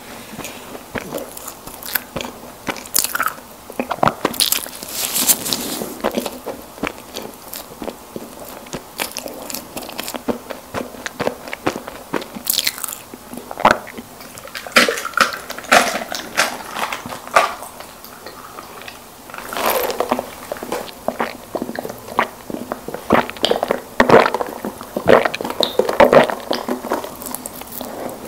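Close-miked biting and chewing of soft packaged snack cakes, with irregular wet mouth clicks and smacks that grow busier near the end.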